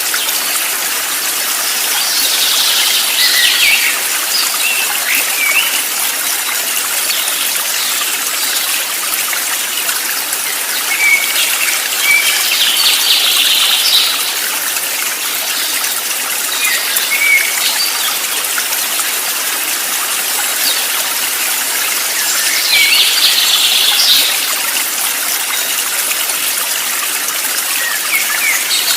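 Running water from a stream, a steady hiss, with birds chirping in short bursts of song every several seconds over it.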